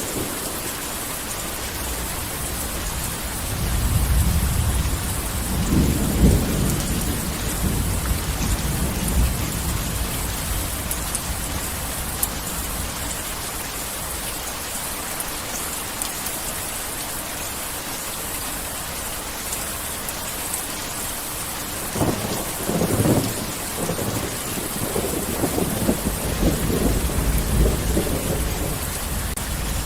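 Heavy rain falling steadily, with rolling thunder rumbling twice, a few seconds in and again in the last third.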